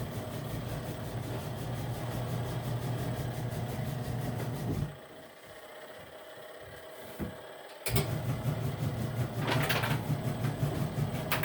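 Portable washing machine's motor running with a steady hum. It stops about five seconds in and starts again about three seconds later.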